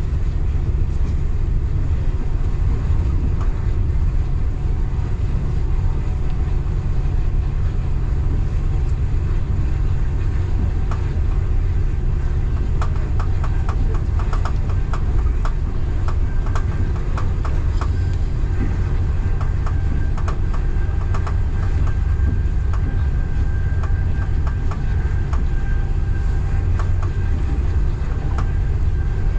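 Local passenger train running on the rails with a steady low rumble. Through the middle there is a run of quick clicks from the wheels over the track, and later a faint thin whine.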